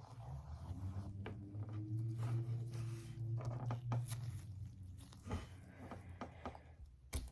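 Small rustles and light clicks of hands and an alcohol swab wiping an injection site, over a low steady hum that fades out a few seconds in.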